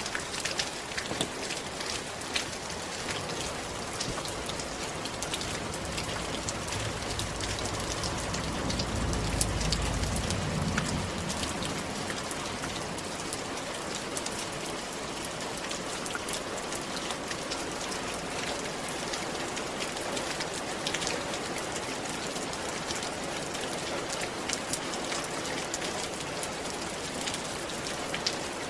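Steady rain falling on a roof, a dense patter of drops with many small ticks. A low rumble swells and fades between about six and eleven seconds in.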